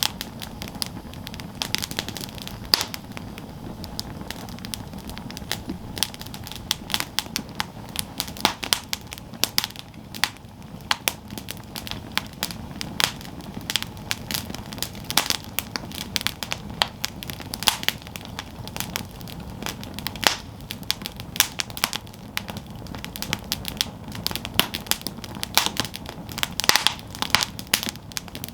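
Campfire burning, with irregular sharp crackles and pops from the burning wood over a steady low rush of flame.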